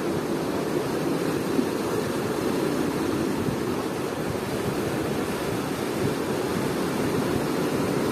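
Steady rushing noise with no distinct events, even in level throughout.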